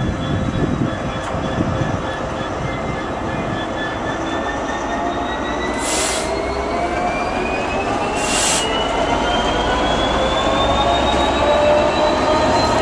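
Diesel train pulling away, its engine and transmission note rising steadily over several seconds, with two short hisses of air partway through.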